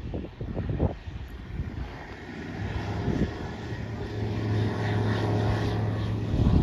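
An aircraft engine drone growing louder as the plane approaches, a steady low hum joined by a higher whine.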